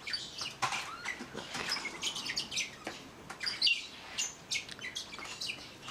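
Bourke's parakeets chirping: a run of short, high chirps, a few a second and irregular.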